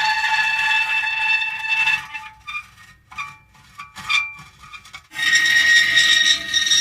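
Metal creaking: a long creak held on several steady pitches, then about three seconds of short broken creaks with gaps, then another long steady creak starting about five seconds in.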